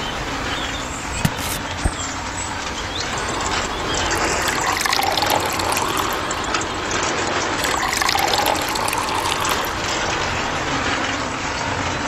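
Water poured into the small drum of a miniature toy cement mixer holding dry cement, a steady splashing pour, with two sharp clicks a little over a second in.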